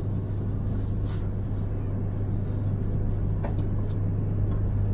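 Steady low rumble and hum inside the cabin of an E3 series shinkansen running, with a few faint ticks.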